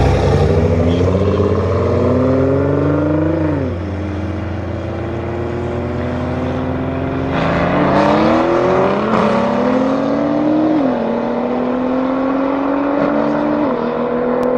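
Straight-piped Mercedes-AMG C63 S coupe's twin-turbo V8 accelerating hard through the gears. Its pitch climbs and then drops sharply at each upshift, three times.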